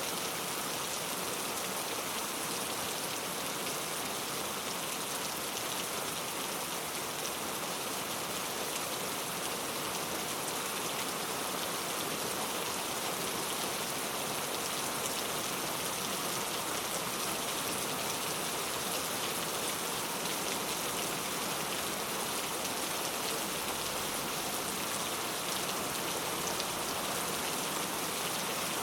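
Very heavy rain falling steadily, a dense, even hiss of drops on surfaces.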